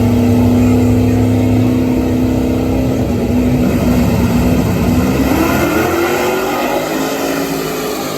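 Drag race car engine running hard, a loud steady engine note that swings into a rising pitch partway through, the sound slowly fading toward the end.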